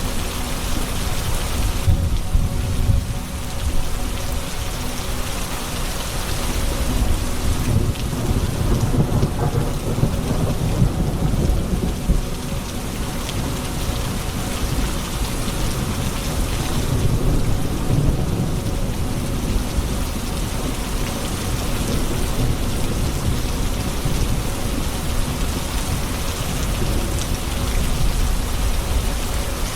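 Steady heavy rain falling, with rolling thunder rumbling low beneath it that swells twice, about a third of the way in and again past the middle.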